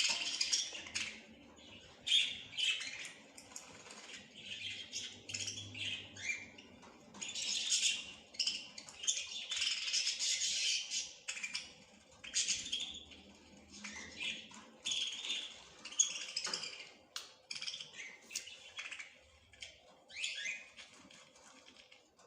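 Small songbirds chirping and twittering without pause, a steady run of short, high notes and quick trills from several birds at once.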